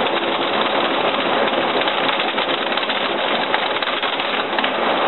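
Heavy thunderstorm rain pouring down, a steady dense hiss of many drops.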